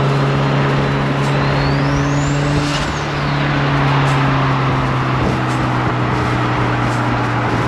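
Car engine running at a steady cruise with road noise, its pitch holding even. A thin high whistle rises and falls once about two seconds in.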